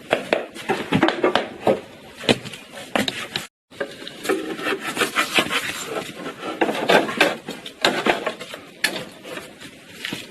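Hand work on wood: irregular knocking and scraping, with a brief break about a third of the way through.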